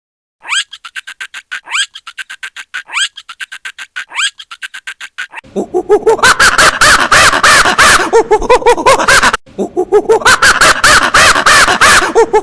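Cartoon monkey sound effect: a fast ticking run with four rising whistles about a second apart, then loud, rapid monkey chattering and screeching in two long stretches with a short break in the middle.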